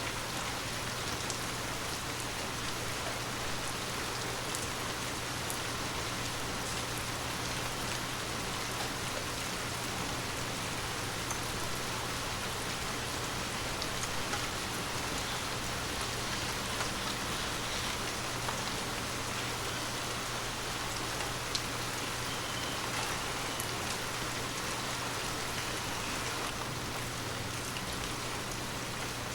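Heavy rain falling steadily, with scattered individual drop hits standing out from the even hiss.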